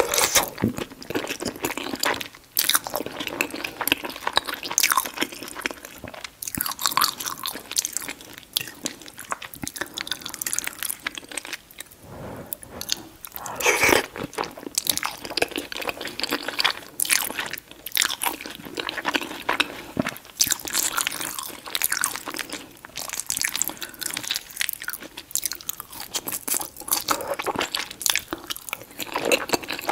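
Close-miked chewing of chili cheese fries: a dense run of small mouth clicks and smacks, with a brief lull about twelve seconds in.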